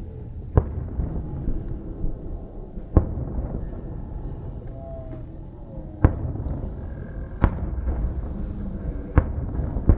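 Fireworks going off: six sharp, irregularly spaced bangs of bursting shells over a steady low rumble.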